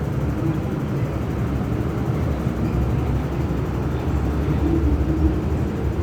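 MTR M-Train electric multiple unit running with a steady low rumble.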